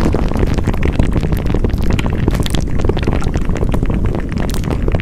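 Close-miked ASMR sound: a dense, continuous crackling and rustling full of small clicks, heavy in the low end.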